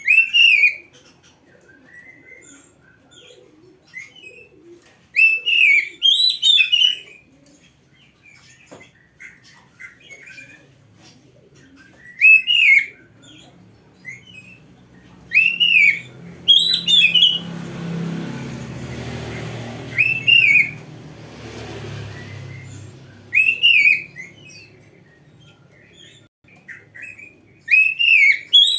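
Oriental magpie-robin (kacer) singing loud, arched whistled phrases that recur every few seconds, with softer chirps and notes in between. A low rushing noise swells and fades in the middle.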